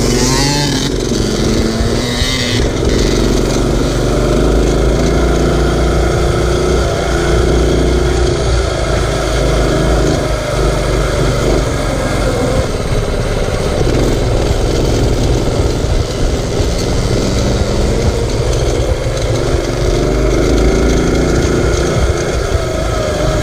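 Mini bike's small engine running under throttle while riding, its pitch rising and falling as it is throttled on and off, over heavy wind rumble on the microphone.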